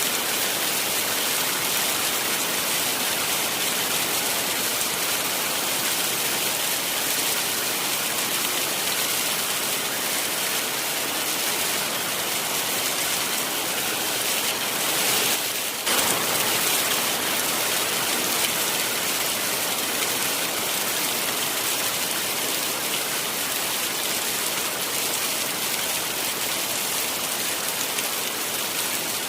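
Heavy rain falling steadily, a dense even hiss of drops, with a brief change in the sound about halfway through.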